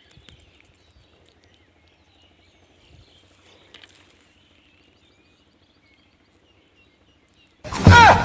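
Faint bird chirps and a few light clicks over quiet outdoor surroundings. Near the end a sudden loud sound cuts in, with a quickly falling pitch followed by dense noise.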